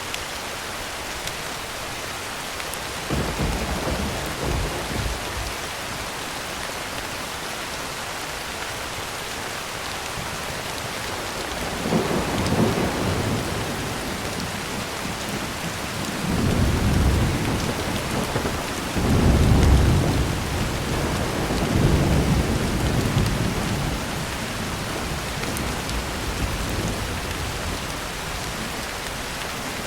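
Heavy rain falling steadily on a tin roof, with thunder. A short roll of thunder comes about three seconds in, then repeated rolls from about twelve to twenty-four seconds in, loudest around twenty seconds.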